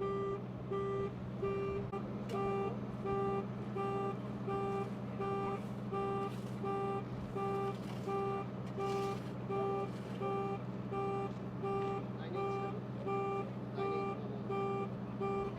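A vehicle's reversing alarm beeping steadily, about two beeps a second, over the steady hum of an idling engine.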